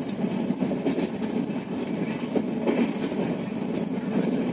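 Passenger train running at speed, heard from inside the coach: a steady rumble of wheels on rail with scattered faint clicks.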